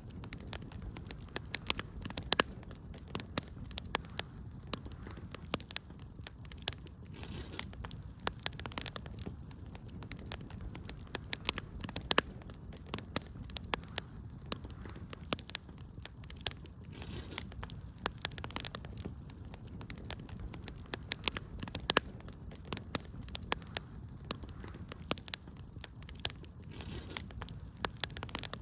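Wood fire crackling in a fireplace: many sharp, irregular pops and snaps over a steady low rumble of flame.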